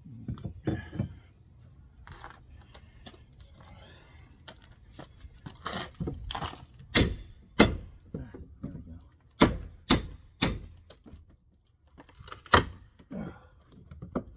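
Irregular sharp knocks and clanks of hand tools striking nails and wood framing during demolition, about ten separate blows with pauses between them.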